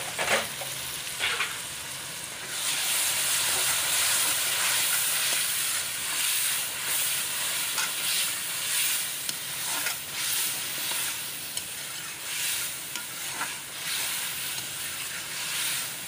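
Bitter gourd and onion–green chilli paste sizzling as they fry in oil in a steel wok, stirred with a metal spoon that scrapes and clinks against the pan. The sizzle grows louder about two and a half seconds in.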